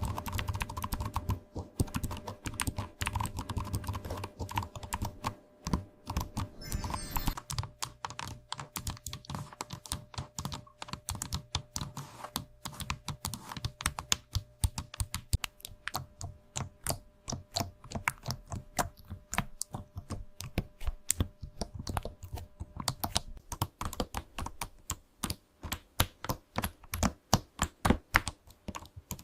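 Typing on a computer keyboard: a fast, irregular run of key clicks, several a second, that spaces out into more separate keystrokes near the end.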